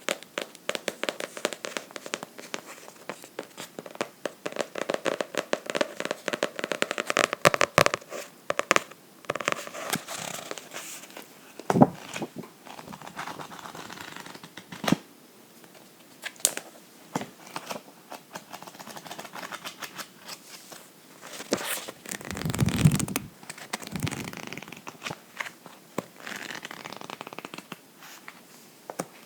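Fingernails tapping and scratching on a book: dense runs of quick clicks and scratches for the first third, then scattered single taps. A soft low rush, like a cover or page being swept, comes a little past two-thirds of the way through.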